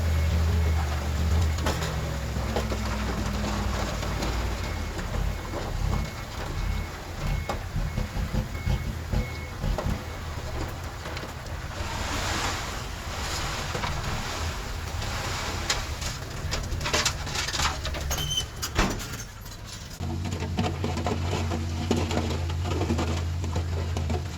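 Diesel engine of a Komatsu D31PX bulldozer running, with irregular clanks through the first half and a faint, evenly repeated high beep. A loud rushing, knocking stretch of moving earth comes midway, then the engine hum holds steady again near the end.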